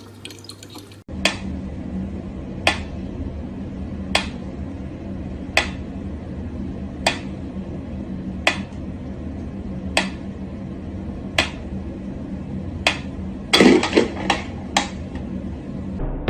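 Sharp taps on a hard object, repeating evenly about every second and a half, then several in quick succession near the end, over a steady low hum.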